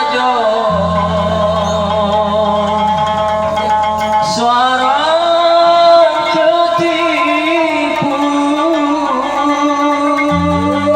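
Traditional Malay zapin (jepen) ensemble music: a melody line with sliding, wavering pitches over held low notes.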